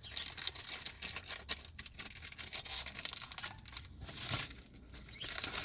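Trading cards and their mail packaging being handled: rustling and crinkling with many small crackles and clicks.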